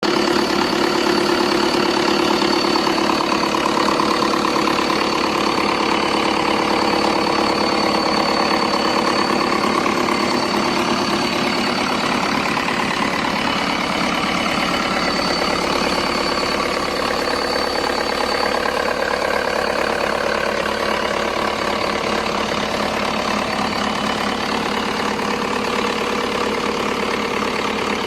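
Car engine idling steadily, with a thin steady high whine over it.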